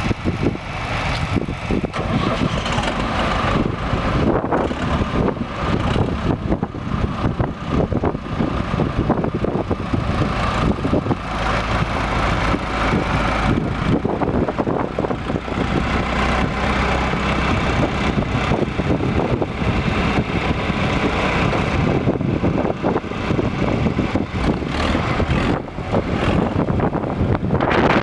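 Case IH 885 tractor's diesel engine running steadily, with wind buffeting the microphone.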